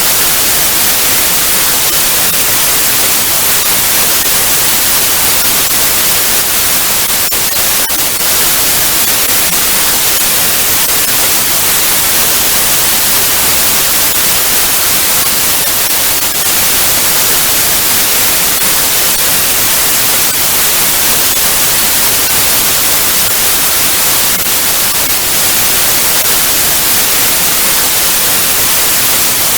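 Television static: a loud, steady hiss with its energy in the highest frequencies and a faint crackle now and then.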